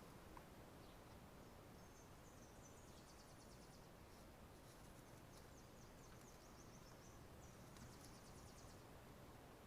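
Near silence: a faint background hiss with soft, rapidly pulsing high-pitched trills coming and going, and a couple of faint clicks.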